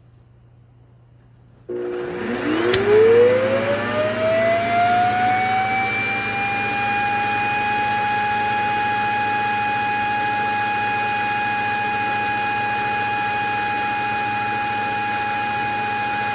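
Shark self-empty base's suction motor switching on and spinning up with a steeply rising whine, then running steadily at a high, even pitch as it empties the robot vacuum's dustbin.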